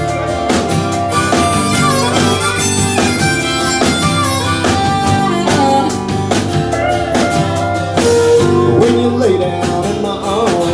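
Country band playing an instrumental break: a steady drum beat and bass under a lead instrument playing bending, sliding notes.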